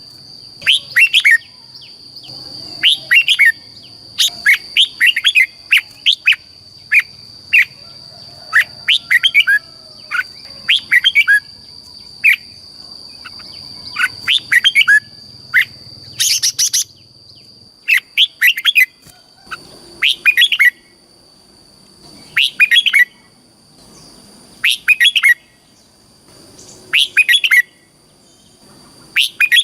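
Red-whiskered bulbul singing: short, quick warbled phrases, one every second or two. Under them a steady high-pitched whine fades about halfway through.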